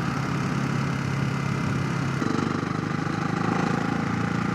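Ducati motorcycle engine running steadily under way, with wind rush on the chin-mounted helmet camera. About two seconds in, the engine note changes and rises.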